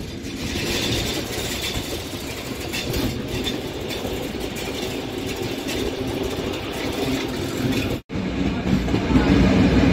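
Historic passenger train of 45000-series coaches behind an E.636 electric locomotive, running along the track as heard from an open carriage window: steady rumble of wheels on rail with rushing air. The sound cuts out for an instant about eight seconds in and comes back louder and deeper.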